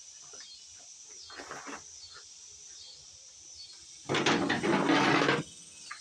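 Insects trilling in a steady, pulsing high buzz that repeats about once a second. About four seconds in, a loud rough noise drowns it out for about a second and a half.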